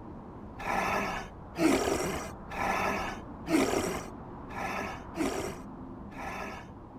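Raspy, wheezing breathing, in and out, about seven harsh breaths of half a second each, alternating softer and sharper ones.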